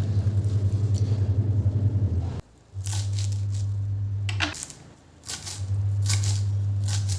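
An electric appliance motor humming steadily, switched off and on so that it runs in three spells with short pauses between, where light clicks and rustles are heard.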